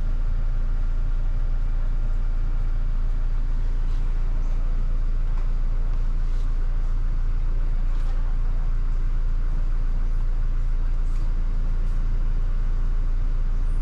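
Car engine idling, heard from inside the cabin as a steady low hum that does not change.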